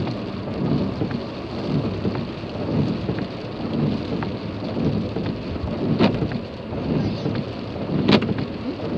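Rain falling on a car, with a low rumble that swells and fades about once a second and two sharp clicks near the end.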